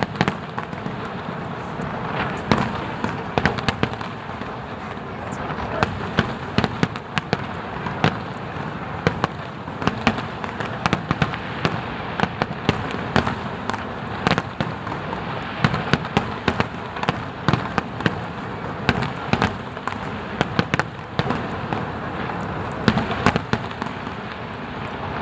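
Aerial fireworks display: a rapid, continuous run of bangs and crackles, several a second, over a steady background hiss of the show.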